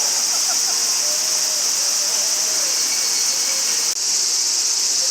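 Steady, high-pitched chorus of insects trilling, dropping out for an instant about four seconds in; faint voices wander underneath.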